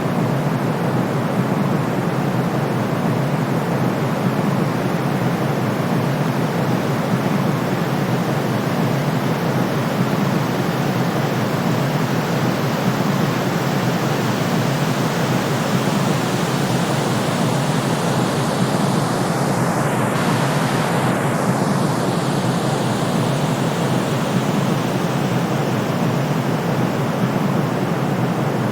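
Steady calming white noise, a constant shushing hiss weighted toward the low end like pink noise. About twenty seconds in, its tone briefly swishes as the upper part sweeps.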